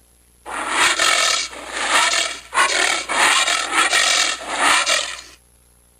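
Anteater vocalising: a run of about five hoarse, breathy bursts, each just under a second long.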